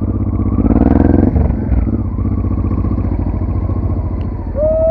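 Off-road motorcycle engine running, rising briefly in a short rev about a second in, then settling. A steady held tone starts near the end.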